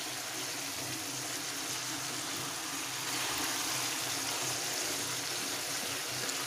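Rohu fish head and pieces sizzling steadily in oily spice paste in a frying pan as they are turned with a wooden spatula; the masala is being fried down after the water has cooked off and the oil has come up.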